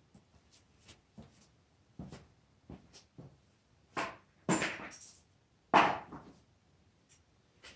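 Small metal parts and hand tools clicking and clinking as a bolt is fitted into a threaded hole, with a few louder clanks about four to six seconds in.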